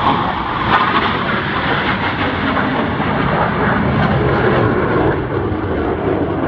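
Loud, steady jet noise from Blue Angels F/A-18 fighter jets in flight.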